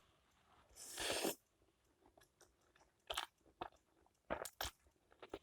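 Close-up eating sounds of a person eating instant hot pot noodles: a soft noisy sound about a second in, then a few faint chewing clicks and smacks.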